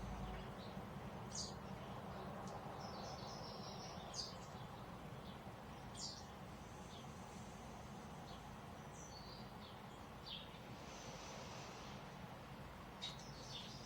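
Faint birds chirping: scattered short, high chirps and brief trills, a few seconds apart, over a steady low background hiss.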